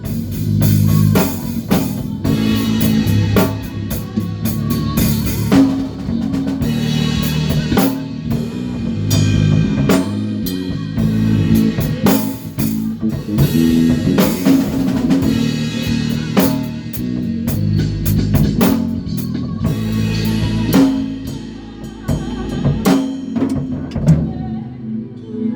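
A live band playing: a drum kit with kick, snare and rimshots over a bass guitar line, with the drum hits thinning out near the end.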